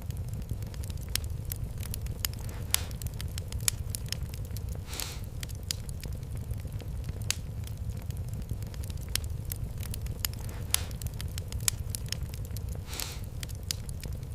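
Fire in a fireplace crackling, with frequent sharp, irregular pops over a steady low rumble. Short hissing swells come about three seconds in, about five seconds in and near the end.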